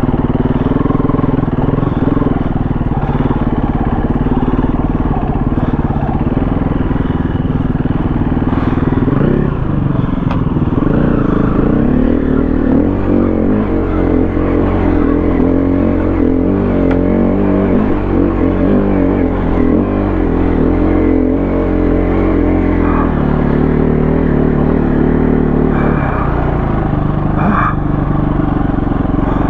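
KTM 350 four-stroke single-cylinder dirt bike engine running under way, its revs rising and falling, then holding steadier through the middle stretch before changing again near the end.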